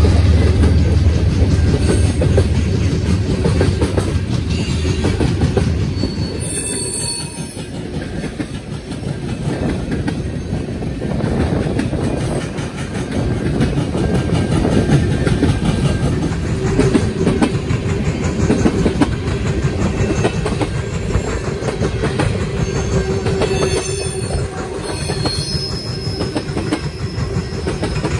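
Freight train of tank cars and boxcars rolling past close by: a continuous rumble and clatter of steel wheels on the rails, with brief high wheel squeals about seven seconds in and again near the end.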